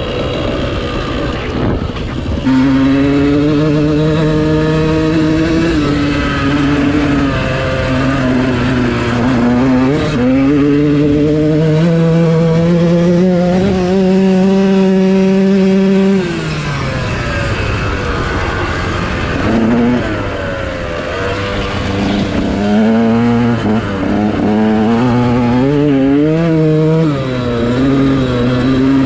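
Dirt bike engine being ridden through sand, its revs rising and falling with the throttle. The pitch climbs steadily for several seconds, drops off sharply about sixteen seconds in, then comes quicker throttle blips.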